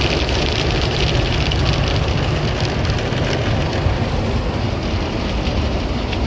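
Automatic drive-through car wash running over the car, heard from inside the cabin: a steady loud rumble with a rushing hiss of water and machinery.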